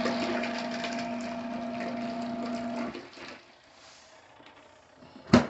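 Pyle PUCWM11 portable washer's agitator motor running with a steady hum and water churning in the tub. It stops about three seconds in. A single sharp click comes near the end.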